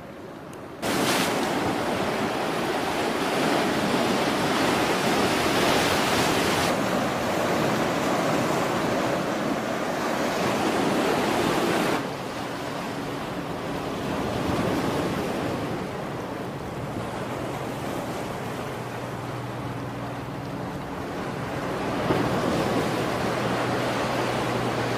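Steady rush of wind and sea noise, loud and even, starting abruptly about a second in and dropping sharply about halfway. A low steady hum runs underneath after the drop.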